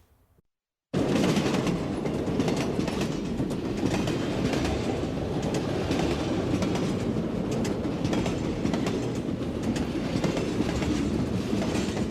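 Train running on rails: a steady rumble with the clickety-clack of the wheels, coming in suddenly about a second in and easing off slightly near the end.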